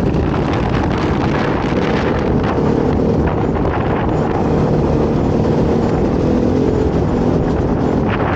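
Dirt bike engine running under way, its pitch shifting slightly with the throttle, with wind buffeting the microphone.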